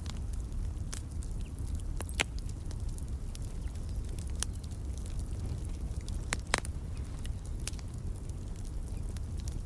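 Wood fire crackling in a fireplace: a steady low rumble of burning with irregular sharp crackles and snaps, two louder pops about two seconds in and near six and a half seconds.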